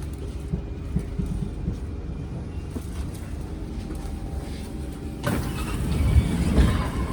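Low rumble and knocks inside a Kawasaki C151 MRT train arriving at a station. About five seconds in, a sudden, louder rush of noise sets in.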